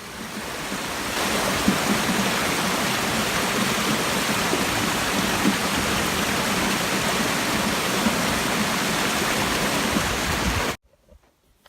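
Water rushing steadily from a small canyon waterfall. It fades in over the first second and cuts off abruptly near the end.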